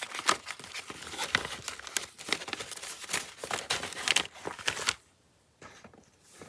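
Crinkling and rustling of paper and packaging as craft supplies are handled and sorted, with many sharp crackly clicks. It stops about five seconds in.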